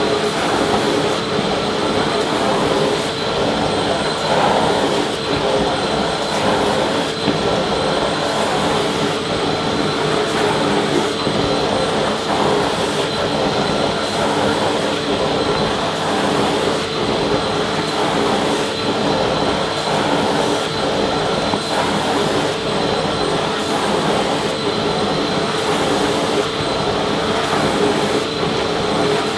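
Vacuum cleaner running steadily: a constant rush of air with a steady motor whine, holding one pitch throughout.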